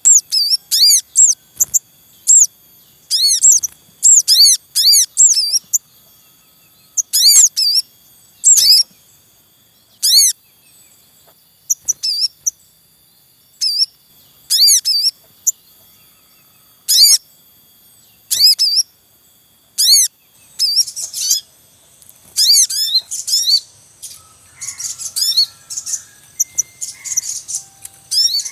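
Sogon birds chirping: quick runs of high, thin 'cuit cuit' notes, each run a series of rapidly repeated arched chirps. The runs come every second or two and grow busier and more overlapping near the end. The calls are those of an adult male and its young at the nest.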